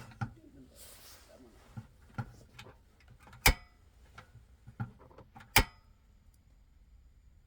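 Scattered knocks and clatter of something being handled, with two sharp, loud clacks about two seconds apart in the middle, each with a short ring.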